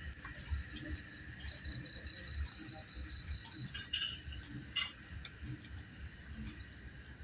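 Night insects, crickets, chirping: a steady high drone underneath, and one nearby insect giving a loud, fast pulsing trill of about two seconds. Two short clicks follow.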